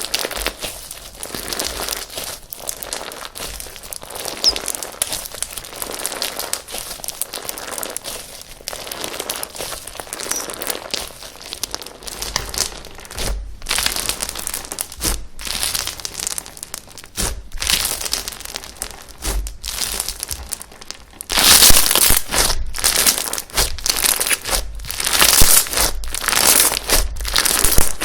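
Slime being squished, pressed and stretched by hand: a dense, irregular run of small sticky pops. It gets louder about three-quarters of the way through.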